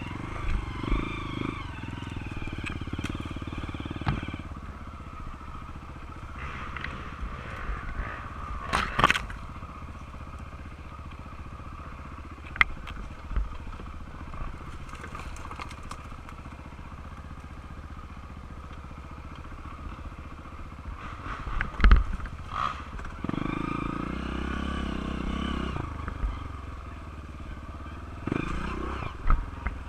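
Honda CRF230 dirt bike's single-cylinder four-stroke engine revving up and down as it rides through mud. Several sharp knocks and clatters come through, the loudest about nine seconds in and again about twenty-two seconds in.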